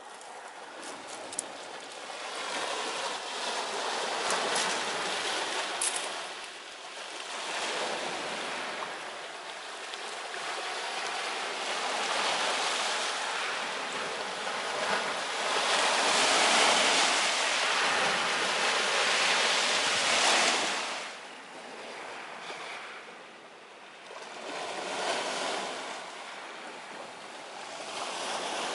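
Ocean surf washing ashore, the noise swelling and ebbing in long waves, loudest around two-thirds of the way through before dropping away sharply. A few faint sharp clicks in the first six seconds.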